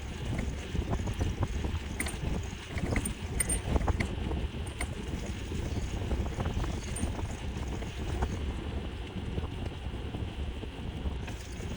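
Wind buffeting the microphone over the rumble of a Trek Townie electric bike being ridden, with small clicks and rattles from the bike.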